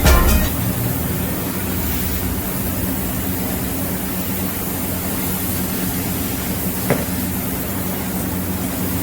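MIG welding arc on steel, a steady hiss with a low hum underneath, with one brief tick near the end.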